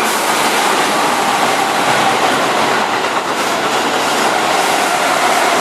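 Keihan Electric Railway express train running on the rails: a steady loud rumble of wheels and track, with a faint steady whine underneath.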